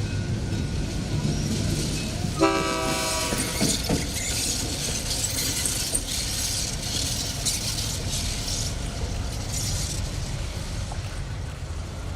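Diesel locomotive running with a low engine drone, sounding one short horn blast about two and a half seconds in, followed by a steady rushing noise of the train going by.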